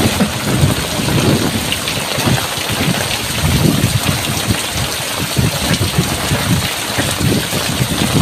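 Heavy tropical downpour pouring steadily, with frequent short, irregular low thumps running through it.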